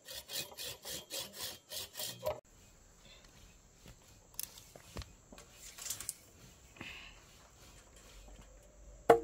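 Handsaw cutting wood in quick back-and-forth strokes, about four a second, that stop a little over two seconds in. Then a few faint knocks, and one sharp knock near the end.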